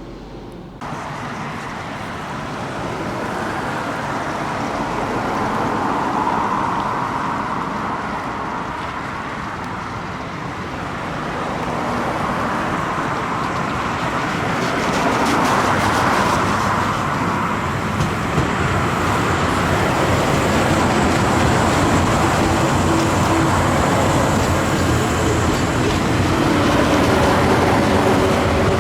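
A train approaching on the San'in Main Line at a crawl, slowed for safety in heavy rain. It starts suddenly about a second in and grows steadily louder, with a faint rising whine near the end.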